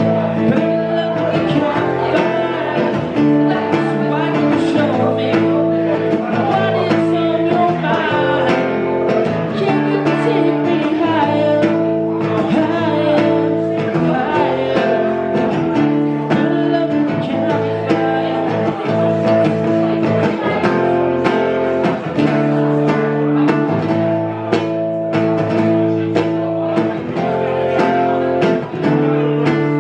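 Acoustic guitar strummed in steady chords, playing a song.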